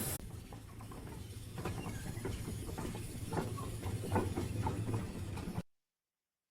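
Steam train sound effect: a steady low rumble with hiss and scattered short knocks. It cuts off abruptly about five and a half seconds in, leaving total silence.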